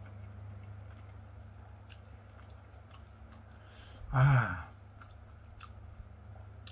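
A man chewing a mouthful of rice and jengkol balado, with scattered faint wet mouth clicks over a steady low hum. About four seconds in he lets out one short, loud voiced exclamation that falls in pitch.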